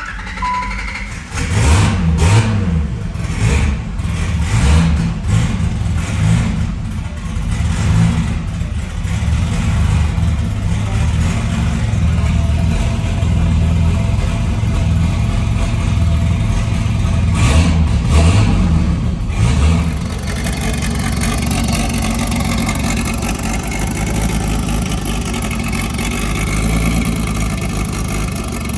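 Turbocharged engine of a 1988 Nissan 300ZX (Z31), freshly started, being revved in repeated throttle blips for about twenty seconds, then running more steadily near the end.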